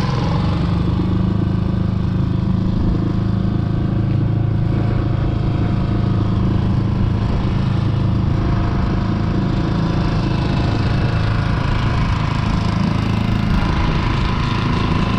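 Small outboard motor on an inflatable boat running steadily at a constant speed, a loud even hum.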